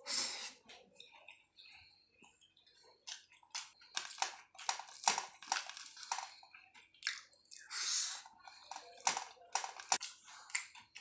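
Close-up chewing and lip-smacking of a mouthful of rice with soft, well-cooked papaya and potato curry: irregular short wet clicks and smacks.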